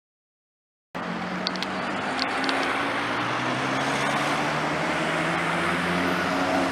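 Silence for about the first second, then a car engine running at a steady low speed in street traffic: an even, low hum with a few faint ticks.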